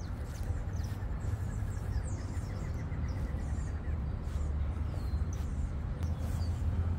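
Outdoor ambience: birds chirping, with a quick run of evenly repeated notes about two seconds in, over a steady low rumble.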